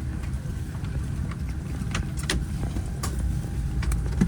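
Steady low rumble of a Boeing 747-8 airliner, heard from inside the cabin, with a few sharp clicks or rattles scattered through it.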